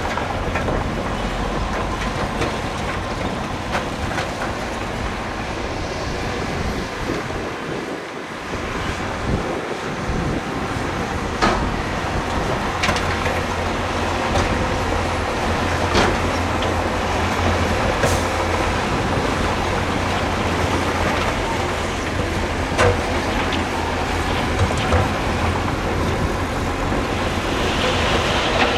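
Heavy earthmoving machinery running steadily, a continuous low engine hum with scattered sharp knocks on top.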